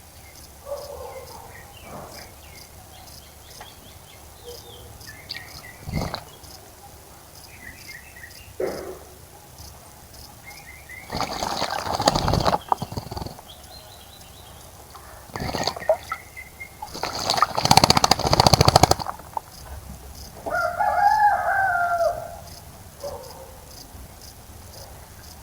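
Birds bathing in a garden bird bath: two loud bursts of splashing and wing-fluttering in the water near the middle, the second the louder, with short bird chirps between. A rooster crows once, about three-quarters of the way in.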